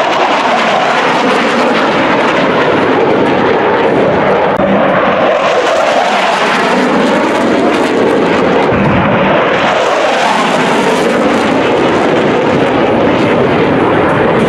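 CF-18 Hornet fighter jets' twin F404 turbofan engines making a loud, continuous jet roar during a low display pass. The roar swells twice, with a sweeping shift in pitch as the jets go by.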